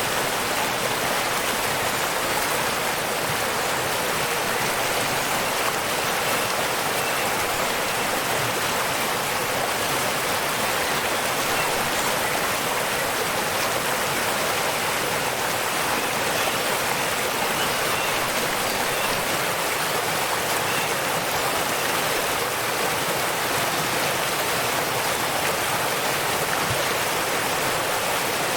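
Steady rush of falling water from a waterfall, an even hiss with no pauses. A few faint high chirps sit over it.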